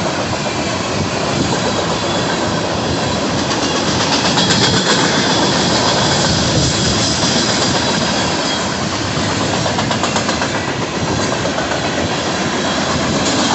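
Union Pacific freight train rolling past close by: a steady rumble of steel wheels on rail with clickety-clack over the rail joints. A high wheel squeal rises about four seconds in and fades near eight seconds.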